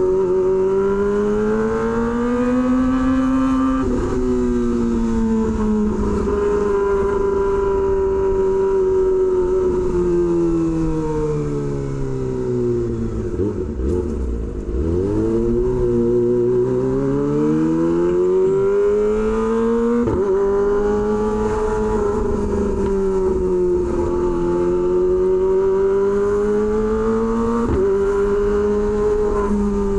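Kawasaki Ninja ZX-25R's 250 cc inline-four running through an SC Project H2 exhaust while riding. The engine note rises and falls with the throttle, with sudden pitch steps at gear changes, and dips low around the middle as the bike slows before climbing again.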